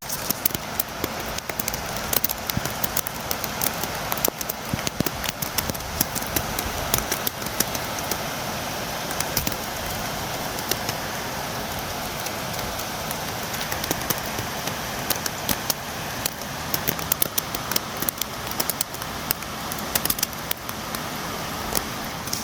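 Steady rain falling, a continuous hiss dotted with many sharp taps of drops striking a window.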